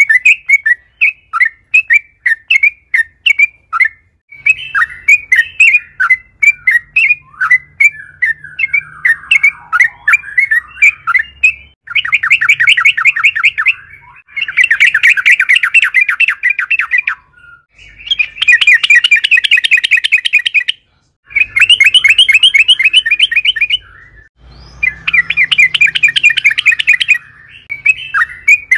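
Yellow-vented bulbul (trucukan) singing: first a run of short, sharp chirps repeated a few times a second, then from about twelve seconds in five fast rattling trills, each two to three seconds long with brief pauses between.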